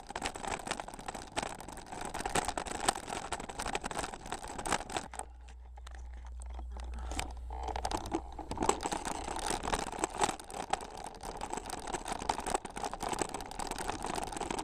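Bicycle riding over a rough dirt trail, with a dense crackle of tyre crunch and rattling clicks. About five seconds in the clicking thins out for three seconds or so under a steady low rumble, then the crackle returns.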